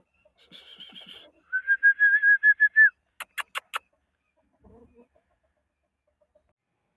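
A chicken calling: a short rough note, then a loud, steady, high-pitched call lasting about a second and a half, followed by four quick sharp clicks.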